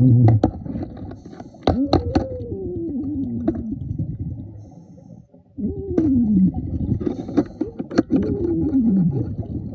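A diver's muffled voice underwater: several drawn-out groans that fall in pitch, with sharp clicks between them.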